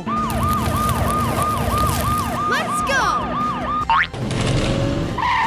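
Cartoon emergency siren sound effect: a fast, repeating falling wail, about three to four times a second. It stops just before four seconds in with a quick rising swoosh.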